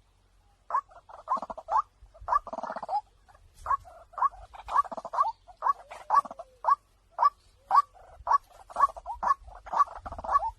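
White-breasted waterhen calling: a long series of short, harsh, upward-sliding notes, about two to three a second, starting after a brief pause. This is a lure call track of the kind played through a speaker to attract waterhens.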